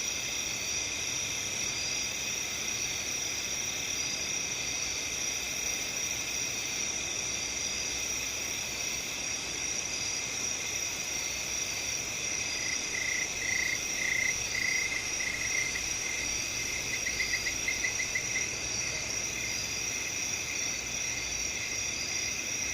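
Crickets and other field insects chirring steadily in several layered high-pitched tones. A little past halfway a louder pulsing chirp joins in, its pulses coming faster before it stops.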